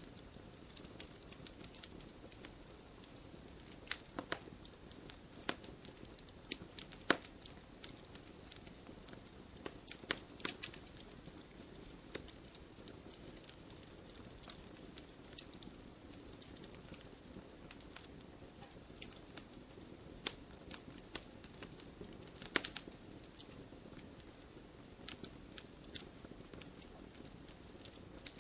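Campfire burning with a low steady hiss and irregular sharp crackles and pops from the burning wood.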